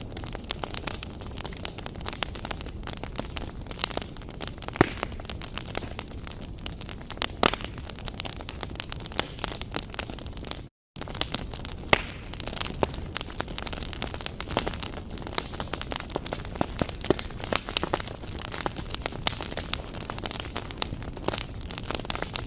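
Fire crackling in a fireplace: irregular sharp pops and snaps over a steady hiss. The sound cuts out for a split second about eleven seconds in.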